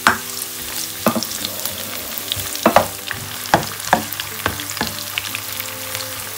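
Sliced onion and crushed garlic sizzling in hot oil in a nonstick pan as they are sautéed, a steady hiss. A spatula stirs them, scraping and knocking against the pan about eight times at an irregular pace.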